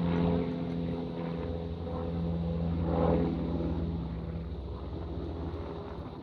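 Aircraft flying over: a steady engine drone with a low hum, loudest about three seconds in.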